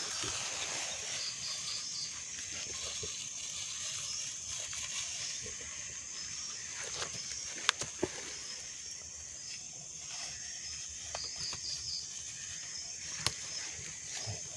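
Steady high-pitched insect chorus with short pulsed chirp trills from time to time, and a few sharp clicks around the middle and near the end.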